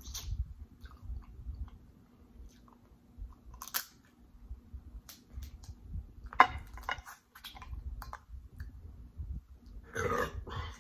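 Close-miked chewing of saucy boiled seafood: wet mouth sounds and lip smacks with scattered small clicks, and one sharp, louder smack about six and a half seconds in.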